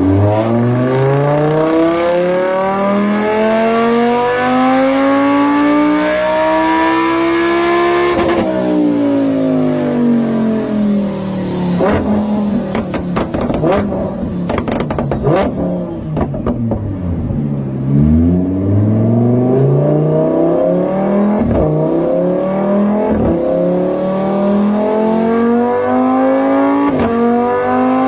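Lamborghini Huracán EVO's naturally aspirated 5.2-litre V10 accelerating in one long rising pull for about eight seconds. It then comes off the throttle, the pitch falling, with a run of exhaust crackles and pops on the overrun. It then pulls up again through the rest, with a few more pops.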